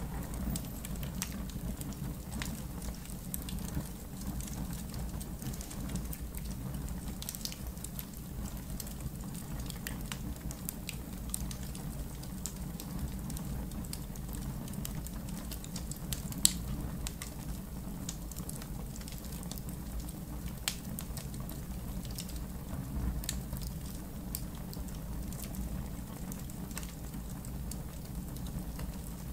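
Campfire in a fire pit crackling, with scattered sharp pops over a low steady rumble and one louder pop about halfway through.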